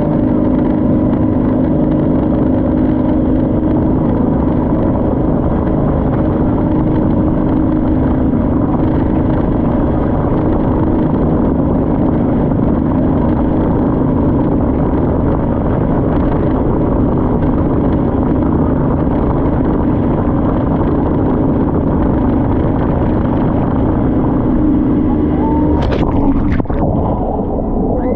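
Motorboat engine running steadily, a constant hum over rushing noise. A few sharp clicks or knocks near the end.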